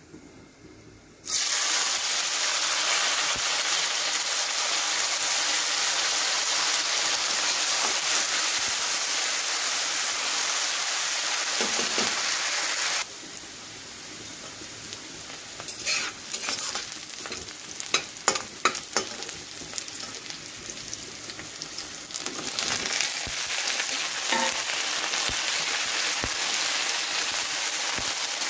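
Onions and vegetable pieces frying in hot oil in a wok, a steady loud sizzle that starts suddenly about a second in. Partway through it drops to a quieter frying hiss with a flurry of sharp knocks of the spatula against the wok, then swells again near the end as the pieces are stirred.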